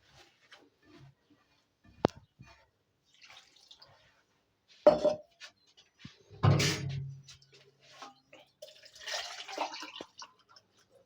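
Wet semolina dough being mixed and gathered by hand in a bowl: soft squishing and dripping with scattered clicks and a few louder knocks of the bowl.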